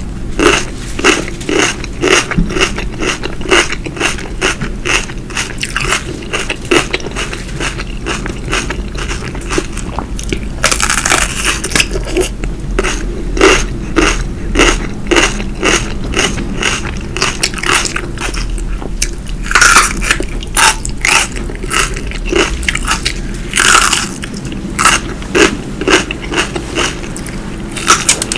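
Close-miked chewing and biting of food: a steady run of small mouth clicks about three a second, broken by a few longer, louder crunchy bites.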